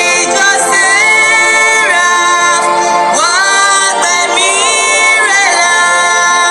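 Devotional singing: a voice holding long notes, sliding up or down into each new note every second or two.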